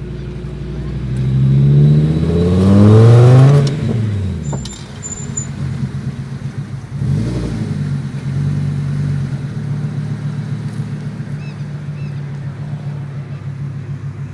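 Fiat Marea 2.4's five-cylinder engine accelerating hard, its pitch climbing to a loud peak about three and a half seconds in. The pitch then drops sharply at a gear change, climbs again briefly around seven seconds, and the engine settles into a steady run.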